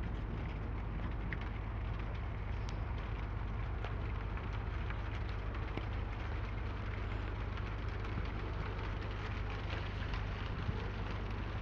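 Steady rain falling: an even hiss with scattered sharper drop ticks and a steady low rumble underneath.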